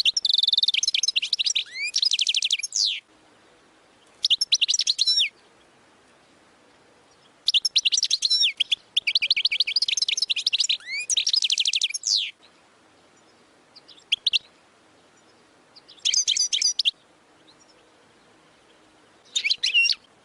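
European goldfinch singing its Oudani-style song: bursts of rapid twittering notes and trills with short pauses between them. The longest phrase, near the middle, lasts about five seconds, and the last few are short.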